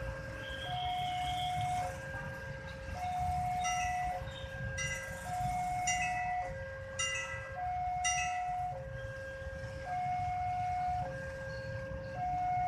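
Railway level-crossing warning alarm sounding its steady two-tone signal: a higher and a lower tone alternate, each held about a second, over a low rumble. It signals that a train is approaching and the crossing is closed.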